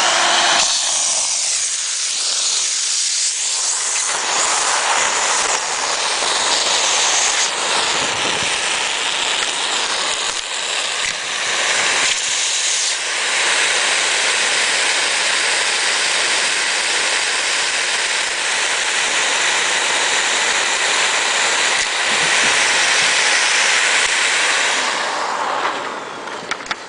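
Vacuum cleaner running, a loud steady rush whose tone shifts several times as it sucks up the tape from a taken-apart cassette. It is switched off near the end and winds down.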